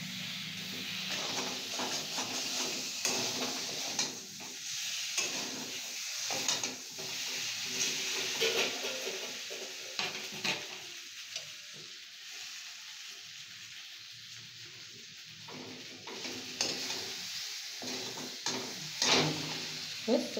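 Potatoes sizzling as they fry in a steel kadai, with a metal spatula scraping and clinking against the pan now and then. The sizzle softens for several seconds after about the middle, and the clinks pick up again near the end.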